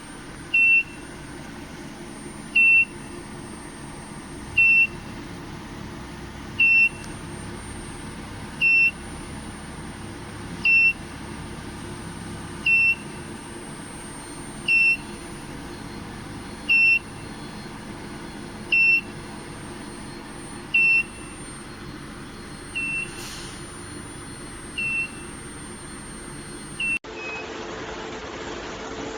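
A short, high electronic beep repeating about every two seconds over a steady machine hum, with a thin high whine underneath; the last few beeps are fainter.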